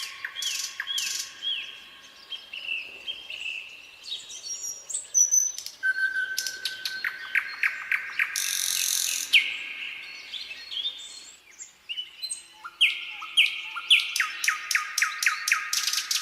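Nightingale singing: phrases of repeated whistled notes and rapid trills, with a short harsh rattling phrase a little after halfway.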